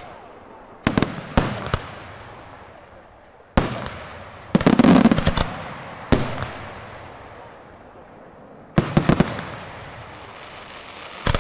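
Daytime fireworks display: aerial shells bursting with loud bangs. Single bangs and quick clusters of several come a second or a few seconds apart, each followed by a long rolling echo.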